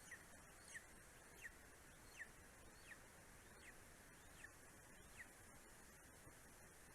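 A bird calling faintly: a series of about eight short thin notes, each sliding down in pitch, a little under a second apart, over a steady hiss.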